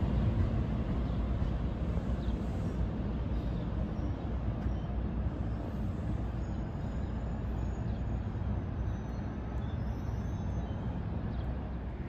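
NJ Transit multilevel commuter train pulling out of the station, a low rumble that eases off over the first few seconds as the train draws away, then holds steady.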